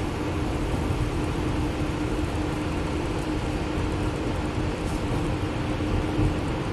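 Bus in motion, heard from inside: a steady low engine and road rumble with a constant hum running through it.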